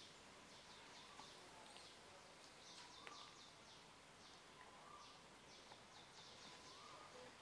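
Faint outdoor ambience with small birds chirping: quick runs of high, falling notes every second or so, and a few soft whistled notes.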